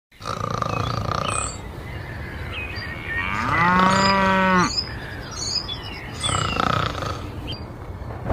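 A cow moos once, a long call a little over three seconds in, over repeated high bird chirps.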